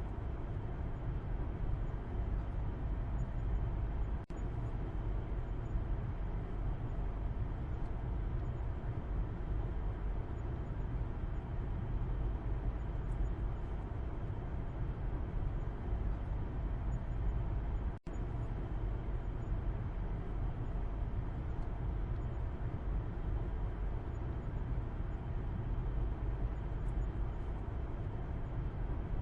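Steady low rumble of a car driving, heard from the back seat inside the cabin: road and engine noise with no change in speed. The sound drops out for an instant twice, about four seconds in and again at about eighteen seconds.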